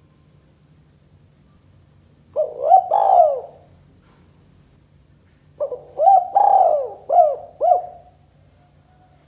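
Spotted dove (tekukur) cooing: two phrases, a short one of a few notes about two seconds in and a longer run of five or six notes a few seconds later. This is the call used as a lure for trapping spotted doves.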